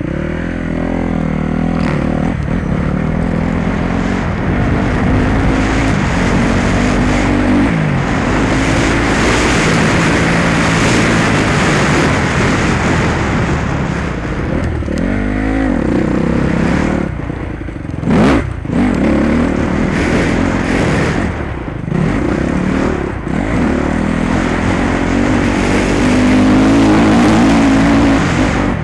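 Motocross bike engine revving hard, its pitch climbing and dropping over and over with throttle and gear changes, under a rushing noise of wind and track. A brief sharp knock comes about eighteen seconds in.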